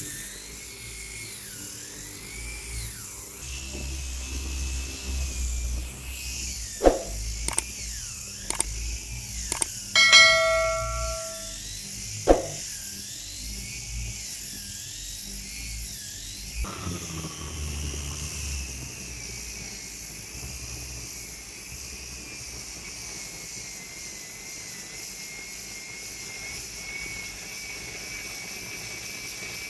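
An electric power tool's motor running, its whine wavering in pitch as it works, with a few sharp clicks and a short ringing tone about ten seconds in. From about seventeen seconds the whine steadies and slowly rises in pitch.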